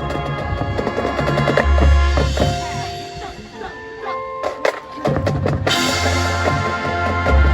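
Marching band of brass, woodwinds and drumline playing, with heavy bass drum under sustained chords. About halfway through, the band thins to a few held notes and some sharp drum hits, then the full ensemble comes back in.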